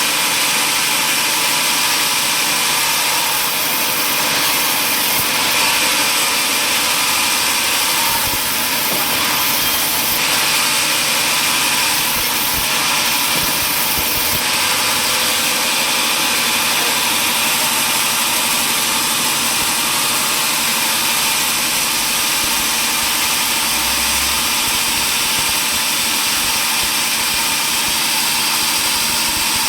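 Sawmill machinery running steadily, a continuous loud machine noise with no clear breaks.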